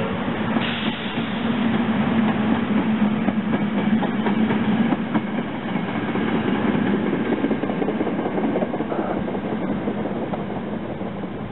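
SEPTA electric commuter train running past on the rails: a steady hum with scattered wheel clicks, fading as it moves away.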